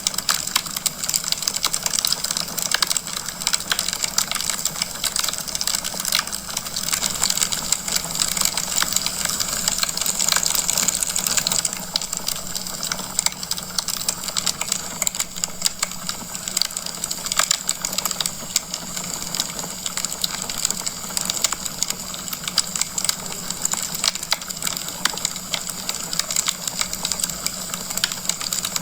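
Logs burning in a fireplace, crackling: a dense stream of small pops and snaps over a soft hiss, a little louder in the first dozen seconds.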